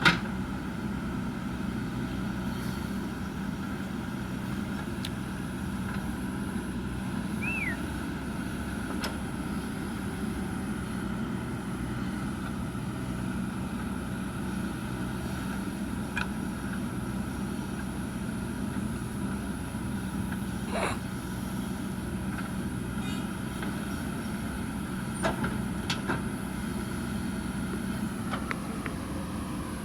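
Heavy diesel earthmoving machinery running steadily at a constant engine speed, with a few short, sharp knocks scattered through.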